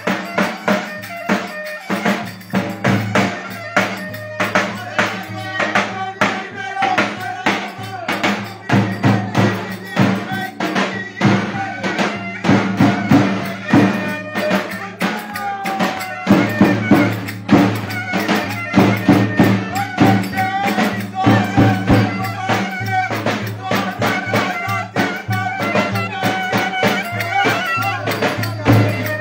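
Live folk dance music: a melody over a steady low drone, driven by fast, even drum beats.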